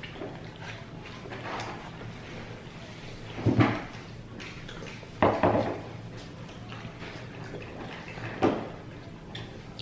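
Three short knocks or clatters, roughly two to three seconds apart, from people eating a seafood boil at the table, over a steady low hum.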